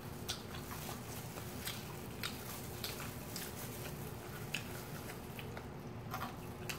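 Two people biting and chewing crispy fried chicken, with short crunches coming at irregular moments.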